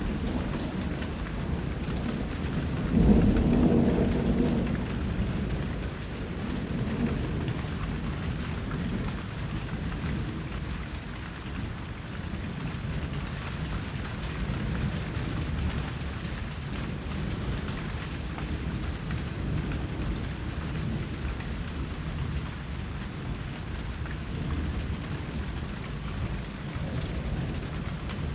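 Steady rain, with a loud roll of thunder about three seconds in that fades over the next few seconds, and a low rumble under the rain throughout.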